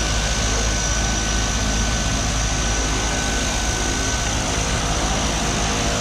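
Steady drone of a small propeller aircraft's engines and propellers, with a thin, steady high whine over it.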